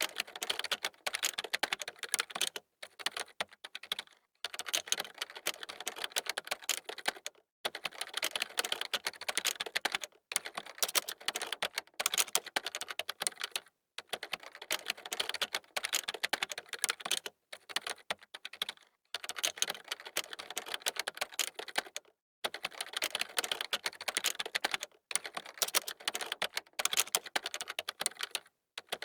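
Computer keyboard typing: fast runs of key clicks lasting a few seconds each, broken by short pauses.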